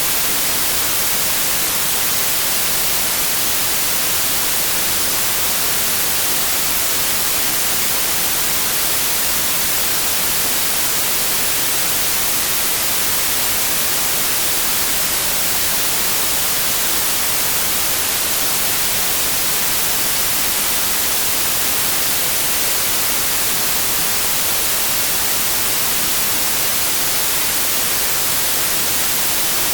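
Steady, unchanging synthetic white noise: an even hiss across the whole range, brightest in the highs.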